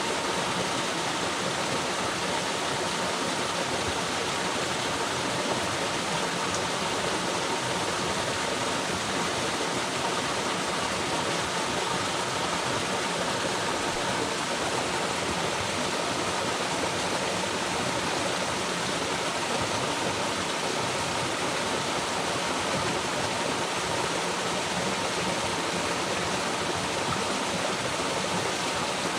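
Waterfall: water falling and rushing in a steady, even wash.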